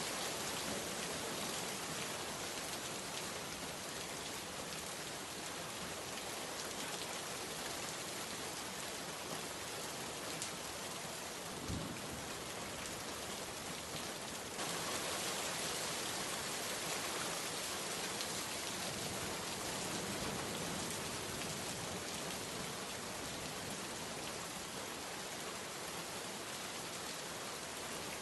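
Steady heavy rain, an even hiss of drops falling on a surface. There is a brief low thump about twelve seconds in, and the rain gets slightly louder soon after, about halfway through.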